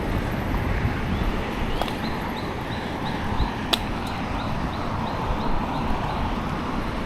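Wind rumble on the microphone and rolling noise of a bicycle being ridden. A series of short, slightly rising high chirps repeats about three times a second from about a second in until near the end, with a single sharp click midway.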